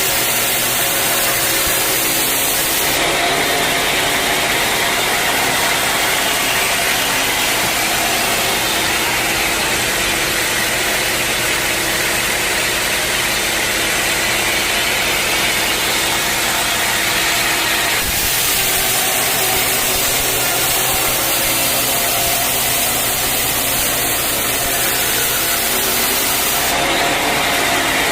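Sawmill machinery running steadily with a constant engine-like tone; the high-pitched part of the noise shifts abruptly a few times.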